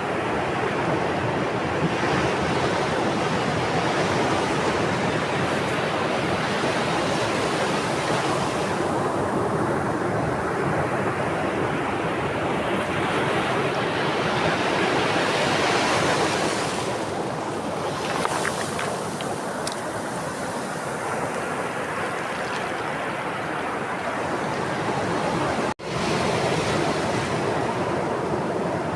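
Sea waves breaking and washing on the shore in slow, repeated swells, a continuous rush of surf that rises and eases every ten seconds or so. There is a momentary gap in the sound about 26 seconds in.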